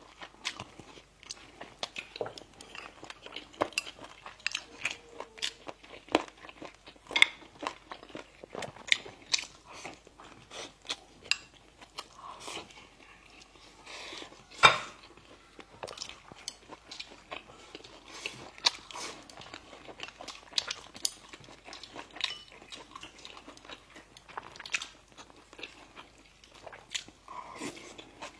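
Close-miked eating of bakery bread and pastries: biting and chewing, with many small sharp clicks throughout and one louder click about halfway through.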